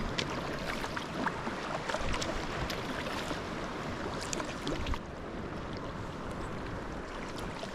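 Water sounds around a sea kayak under way: a steady wash of sea with small splashes and drips from the hull and paddle, and wind on the microphone. The hiss drops abruptly about five seconds in.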